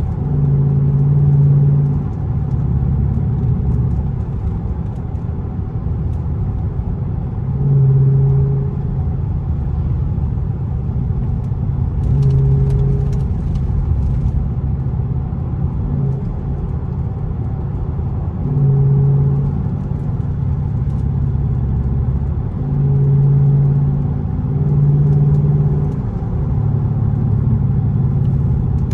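Loud car exhaust at cruising speed, a steady low engine drone that swells louder for about a second at a time, several times, as throttle is given.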